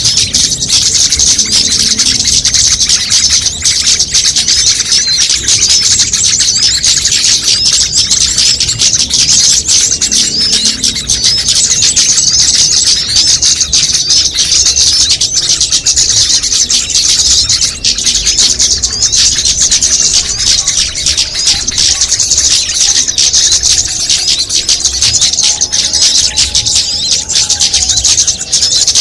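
Dense, continuous, high-pitched chirping of many small songbirds layered together, a bird-lure call mix for drawing in small birds.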